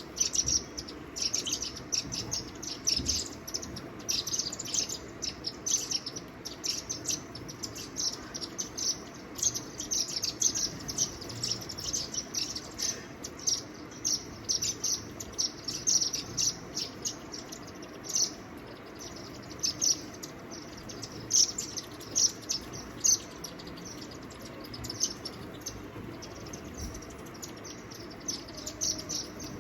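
Small birds chirping: a dense, continuous run of short, high chirps, often a few a second, with some louder ones standing out.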